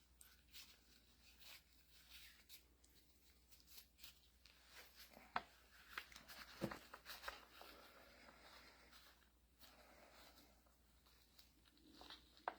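Faint clicks and scrapes of hydraulic pump parts being handled and fitted together by hand, with a couple of sharper ticks about five and a half and six and a half seconds in.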